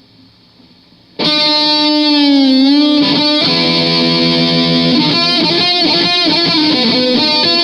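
Distorted electric guitar playing a lead line: faint amp hum for about a second, then a long held note bent down and back up, followed by a run of shorter notes.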